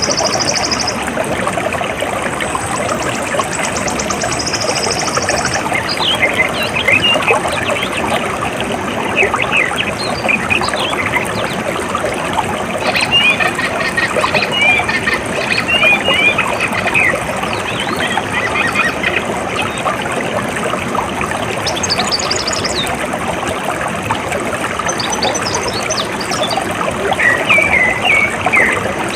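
Water running steadily, with birds chirping at intervals over it. A rapid, high buzzing trill sounds in the first few seconds.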